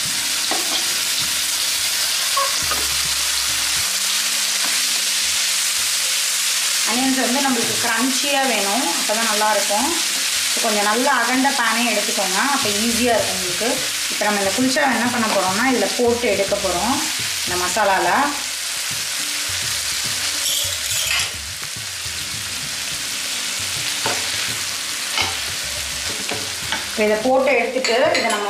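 Onions, green chillies and chicken tikka masala sauce sizzling steadily in hot oil in a nonstick frying pan, stirred with a wooden spatula.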